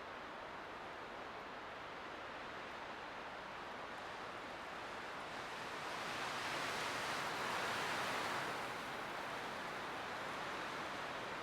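Light wind blowing steadily, with a gust swelling about six seconds in and easing off again about two and a half seconds later.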